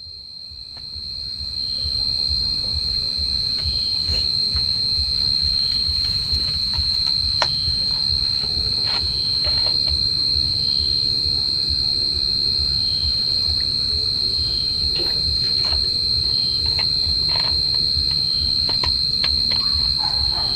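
A steady high-pitched whine that fades in over the first two seconds and then holds at one level, with scattered clicks and a low rumble underneath.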